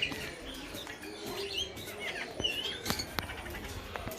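Many small birds chirping and calling all at once, short gliding chirps overlapping, with a few sharp clicks in the second half.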